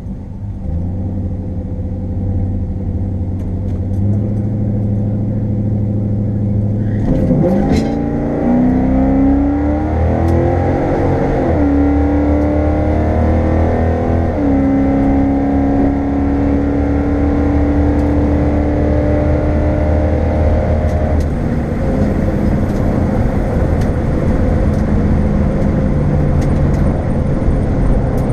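1972 Chevrolet Chevelle's engine heard from inside the cabin. It idles at the drag-strip start line, brought up in revs about four seconds in. About seven seconds in it launches at full throttle, revs climbing and dropping through several upshifts, then runs steadily at speed. It is eased off about two-thirds of the way through and runs on at lower revs.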